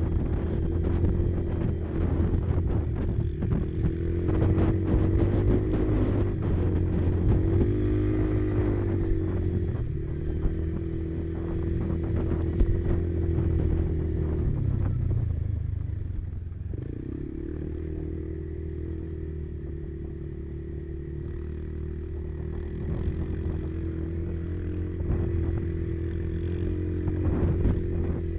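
Kymco Maxxer 300 quad's single-cylinder engine running on a trail ride, with rattles and knocks from the machine over rough ground. Past the middle the engine eases off and runs quieter for several seconds, then picks up again near the end.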